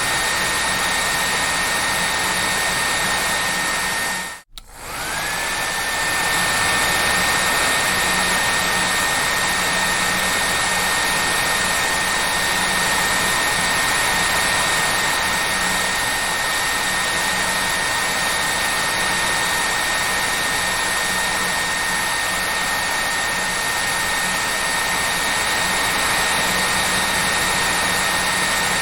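Hair dryer running steadily: a loud, even rush of air with a high motor whine. About four and a half seconds in, the sound cuts out for a moment, and the whine then climbs quickly back to pitch.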